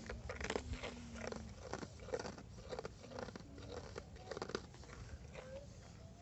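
A run of short, irregular crunching strokes, a few a second, with a couple of brief faint squeaks.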